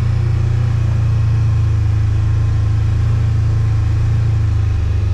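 A vehicle engine running steadily with a low, even hum, its pitch dropping slightly near the end.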